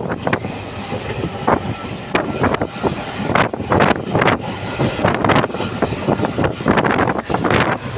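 A train running past with a steady low rumble, while wind buffets the microphone in irregular gusts.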